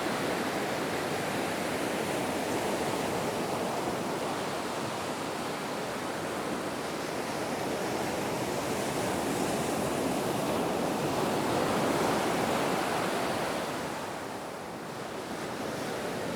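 Ocean waves breaking on the shore: a continuous surf wash that swells, peaks about three-quarters of the way in, then briefly falls away before building again.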